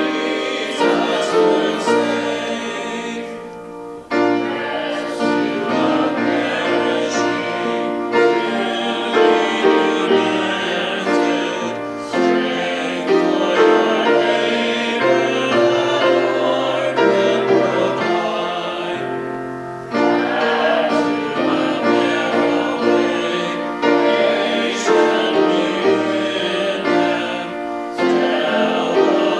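A hymn sung by several voices with piano accompaniment, in phrases of about four seconds each.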